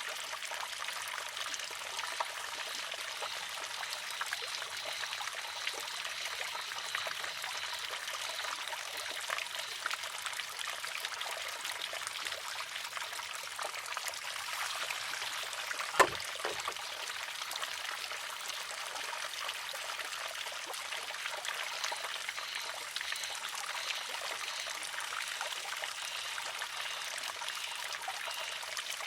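Water trickling steadily into a wooden shishi-odoshi (sōzu). About halfway through there is a single sharp clack as its pivoting arm fills, tips and strikes the stone.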